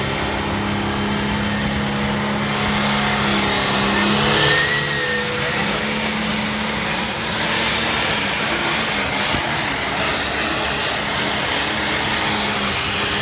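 Super stock pulling tractor's turbocharged diesel engine under full throttle; its turbo whine rises steeply about three seconds in and then holds at a very high pitch as the engine pulls hard.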